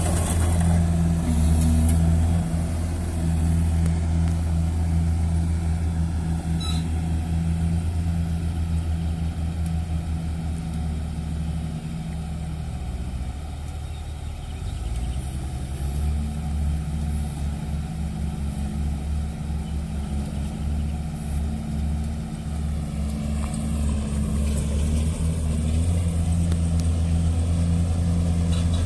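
A heavy engine running steadily at a low pitch. It eases off about twelve seconds in and comes back up a few seconds later, as if under changing load.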